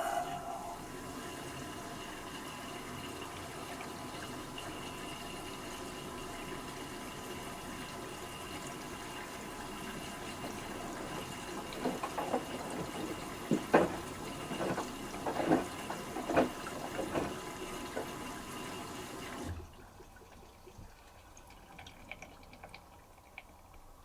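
LG Turbowash 360 AI DD front-loading washing machine taking in water for its final rinse: a steady rush of water through the inlet valve, with a run of splashes and knocks about halfway through as the drum turns. The fill stops abruptly near the end, leaving a few faint clicks.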